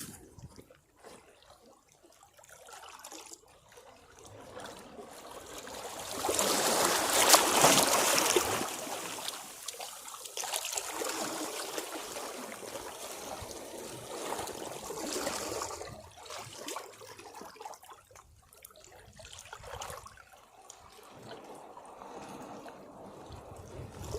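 Sea waves breaking against rocks: after a quiet lull, one wave crashes about six seconds in, the loudest moment, and its water washes and trickles back over the rocks for several seconds before the sound ebbs and a smaller surge builds near the end.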